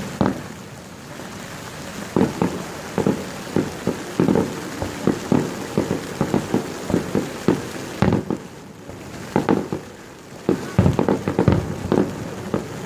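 Aerial fireworks bursting in quick volleys, several pops a second in two dense runs with a lull between. A steady hiss of rain runs underneath.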